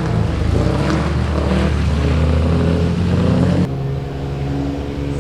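Rally car engine running with a steady note and a couple of small rises in revs. About three and a half seconds in it cuts abruptly to a quieter, lower engine note.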